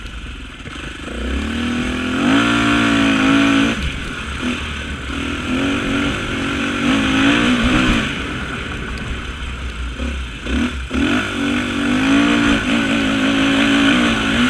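Off-road racing motorcycle engine revving hard and easing off over and over, the pitch climbing and dropping as the throttle is worked over rough ground.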